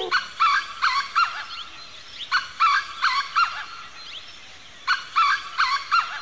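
A bird calling in three bursts of four short notes, each note rising and falling in pitch, with pauses of about a second between the bursts.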